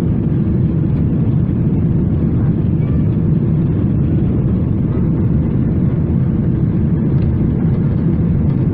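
Steady, deep rumble of cabin noise inside a Boeing 777-300ER airliner in flight, the drone of engines and airflow with no changes.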